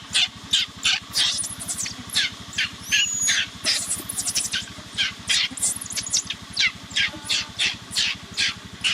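A rapid series of short, harsh, high-pitched bird calls, about two to three a second, over a steady low pulsing throb.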